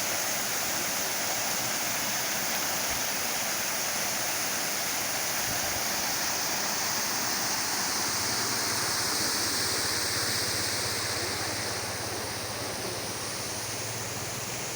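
Waterfall swollen with muddy rainwater, its water rushing steadily.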